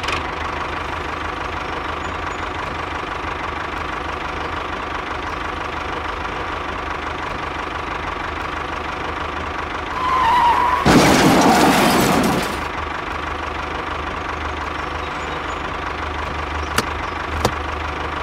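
Small motor of a miniature toy tractor running with a steady hum. About eleven seconds in, a louder, rougher noise lasts for about a second and a half.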